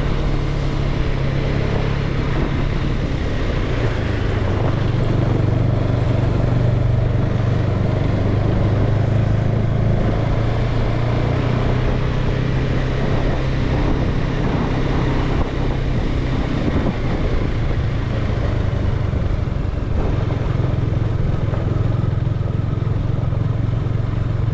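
Motorcycle engine running steadily while riding, its note shifting a little in pitch now and then, over a constant rush of wind and road noise.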